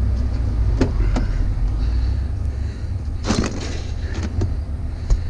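Steady low engine rumble, with several scattered knocks and a longer clatter about three seconds in as scrap is handled.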